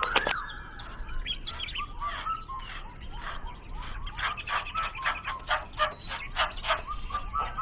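Small birds chirping: many short, quick calls overlapping, with a run of sharp ticks in the second half.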